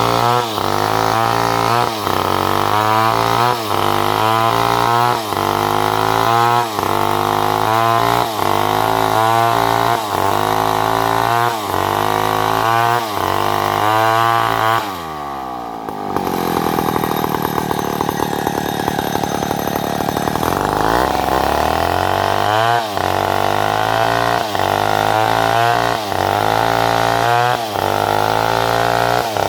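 Chainsaw cutting salam wood, its engine pitch rising and falling about once a second. About halfway through it drops to a lower, steady speed for around five seconds, then revs up and cycles again.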